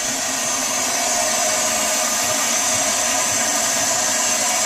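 Steady rushing hiss of air and water escaping through a valve while a new water heater tank fills, as the air is bled out of it.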